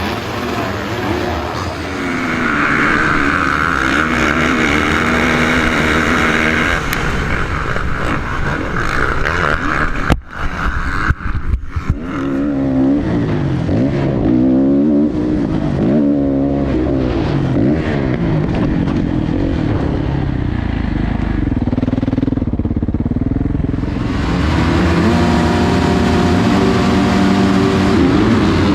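Motocross dirt bike engines revving up and down, the pitch rising and falling with the throttle. There are brief breaks a little under halfway through and a change in the engine sound near the end, as one clip gives way to the next.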